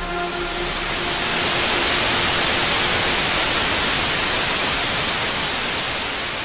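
Loud, steady white-noise static hiss. The music's last held note dies away in the first second, and the hiss slowly fades toward the end.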